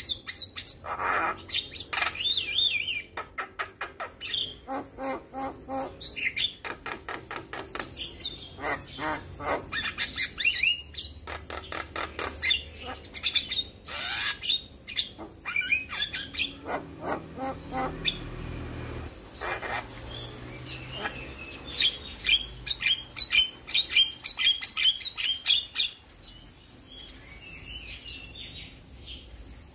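Javan myna in full song: a varied run of rapid chattering notes, whistles and harsh squawks in quick bursts, growing quieter in the last few seconds.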